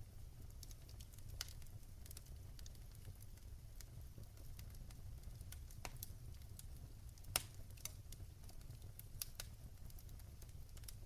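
Wood fire crackling: irregular sharp pops and snaps over a low, steady rumble, with one louder pop about seven seconds in.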